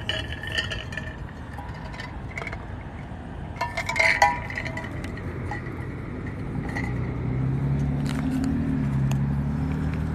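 A few sharp clinks and scrapes about four seconds in, then a motor vehicle's engine droning past, growing louder in the second half.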